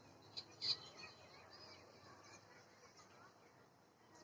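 Young animals calling: two short, high-pitched cries under a second in, then faint scattered peeps over a low hiss.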